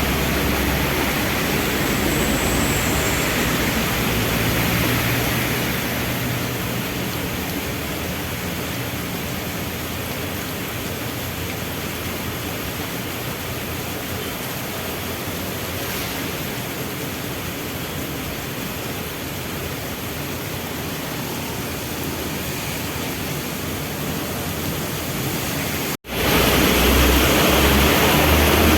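Heavy rain falling steadily, with vehicle engines running low underneath at a traffic light. The sound cuts out for an instant near the end and comes back louder, the engine hum stronger.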